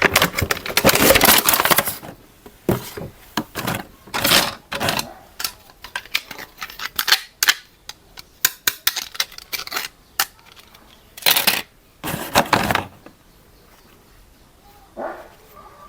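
Handling of hard plastic toy parts and packaging: a dense rustle and clatter for the first two seconds, then scattered clicks and knocks, with louder bursts of rustling about a third of the way in and again about three-quarters through.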